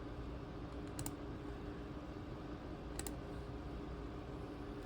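Two sharp clicks on a ThinkPad T23 laptop, about two seconds apart, over a steady low hum.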